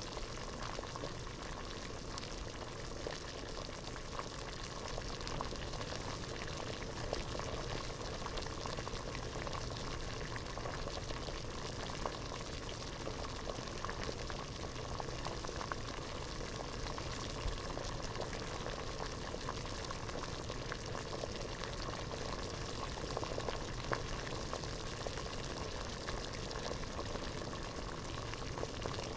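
Water boiling hard in a pot: a steady bubbling with many small pops and the odd louder one.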